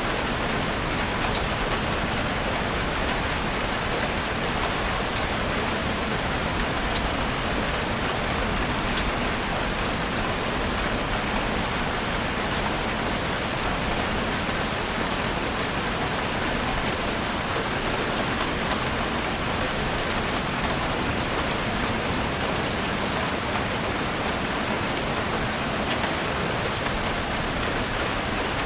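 Heavy rain falling steadily on a roof: an even, unbroken hiss with scattered ticks of individual drops.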